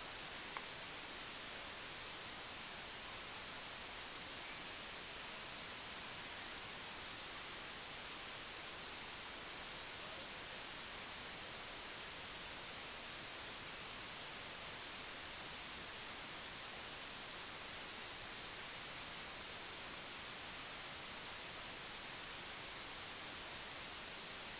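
Steady, even hiss like static, with no other sound except a faint click about half a second in.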